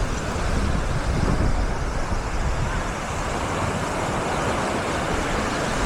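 Steady seaside ambience of surf washing on a busy beach, with wind rumbling on the microphone.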